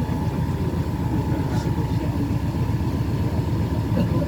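River cruise boat's engine running steadily, a low rumble with a faint steady whine above it.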